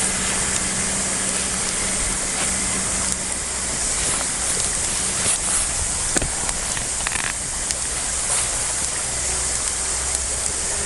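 Wood campfire burning with a steady hiss and a few scattered crackles and pops.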